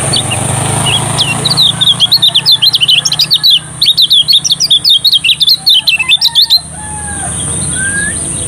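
Kecial kuning (lemon-bellied white-eye) singing a fast, high twittering song of quick chirps. It starts about a second in and breaks off suddenly after about five seconds, over a steady low hum.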